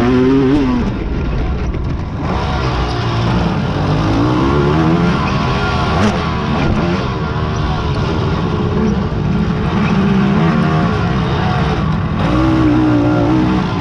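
Several big-bore racing quads (ATVs) running together, their engines revving up and down as riders work the throttle and go past.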